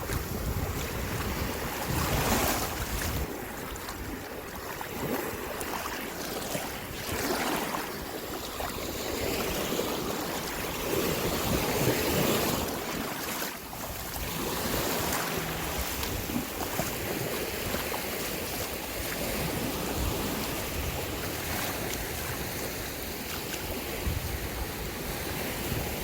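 Small waves washing onto a sandy beach, swelling and easing every few seconds, with wind buffeting the microphone.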